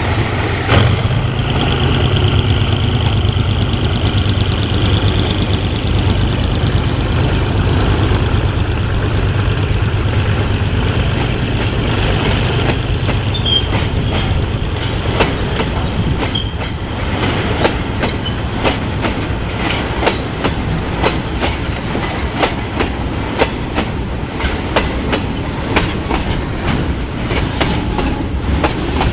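Train running on the track: a steady engine drone with a high squeal over the first half, then a quick, irregular run of clicks and clacks from the wheels going over rail joints in the second half.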